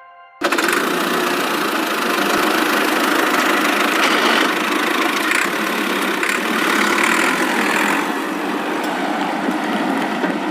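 A vehicle engine running steadily. It starts abruptly about half a second in and holds at an even, loud level.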